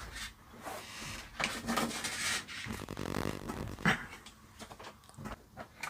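An amplifier chassis being handled and turned over on a workbench: a few scattered knocks and clicks with rustling in between.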